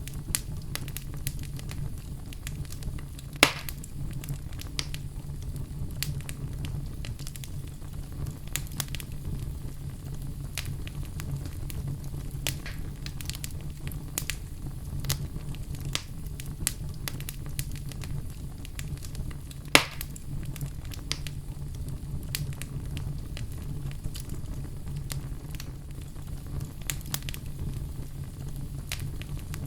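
Wood fire in a fireplace crackling, with a steady low rumble and many small snaps throughout. Two louder pops come at about 3 and 20 seconds in.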